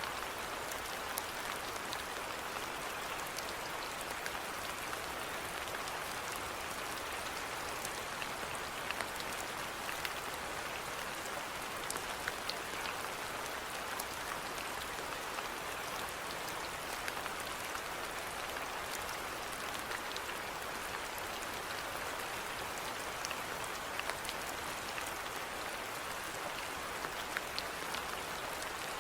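Steady rainfall, an even hiss with scattered sharp ticks of individual drops.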